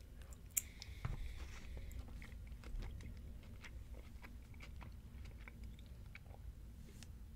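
Close-miked chewing of a mouthful of a beef power bowl: many small wet mouth clicks and ticks, with one sharp click about half a second in, over a low steady hum.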